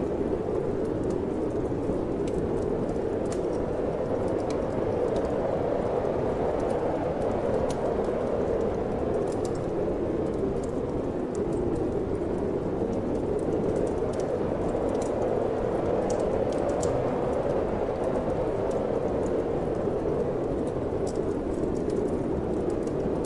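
Wind blowing in a steady rush that swells and eases slowly, with sparse faint crackles of a wood fire in a fireplace scattered through it.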